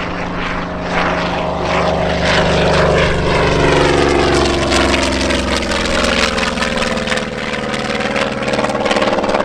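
Propeller-driven aircraft flying past, its engine and propeller drone falling in pitch as it goes by.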